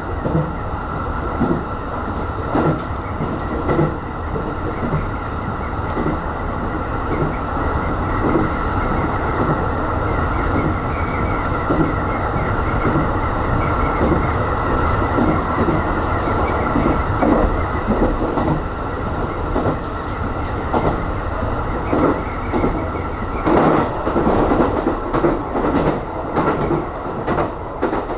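Aonami Line electric commuter train running at speed, heard from inside the car: a steady rumble with wheels clicking and knocking over the rails and a steady high hum. From about 23 seconds in, the hum drops away and the knocking gets louder and rougher.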